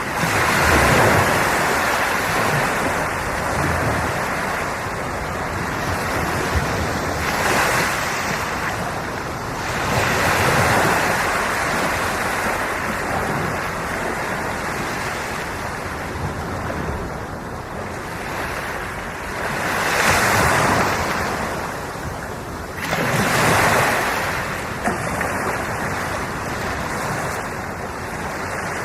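Ocean waves breaking and washing on the shore, a steady surf with a swell in level each few seconds as a wave comes in, and wind on the microphone.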